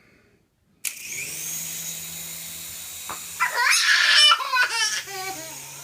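Toy RC helicopter's small electric motor and rotor whirring with a steady high whine, starting abruptly about a second in. Partway through, a young child squeals and laughs excitedly over it.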